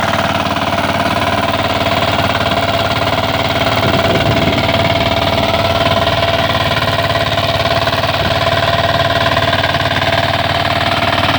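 Engine of a rotary tiller running steadily, with rapid even firing pulses and a steady whine above them.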